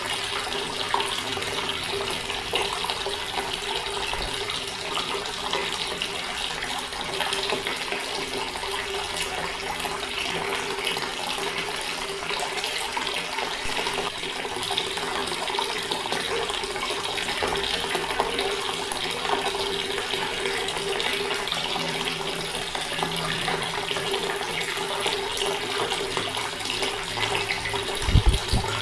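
Water running steadily from a tap, an even splashing with a steady low note under it. A brief low thump near the end.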